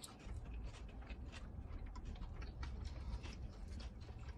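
Faint chewing of a nori-wrapped bite of tuna and shima rakkyo: soft, irregular clicks and mouth noises over a low rumble.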